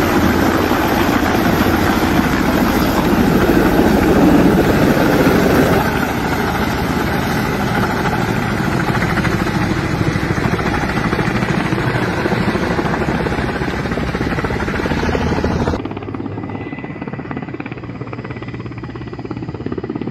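Steady, loud running-machine noise with a fine, fast pulsing. About 16 seconds in it suddenly drops in level and turns duller.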